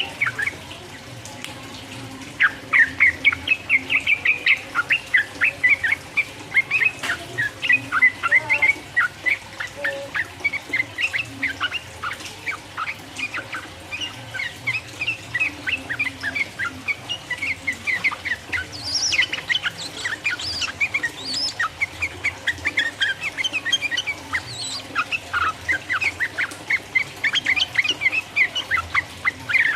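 Yellow-vented bulbul (trucukan) singing in the long 'ropel' style: a fast, nearly unbroken run of short chirping notes, with a short lull about a second in.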